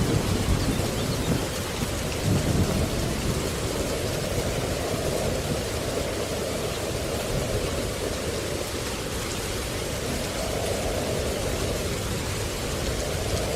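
Steady rain falling with a low rumble of thunder, the rumble strongest in the first few seconds and then settling into an even wash of rain.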